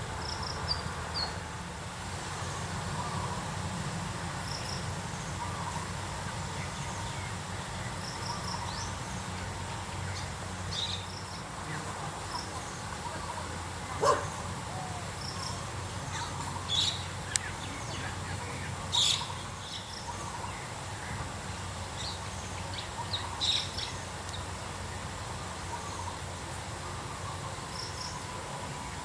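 Small birds giving short, high chirps and calls now and then, with a few louder sharp calls, over a steady low hum.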